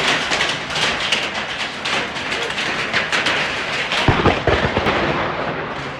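Heavy rain pounding down in a thunderstorm, a dense steady hiss with fine crackles, and a low rumble of thunder about four seconds in.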